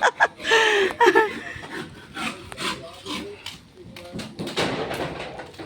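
A brief voice about half a second in, then irregular rubbing and scraping with scattered clicks.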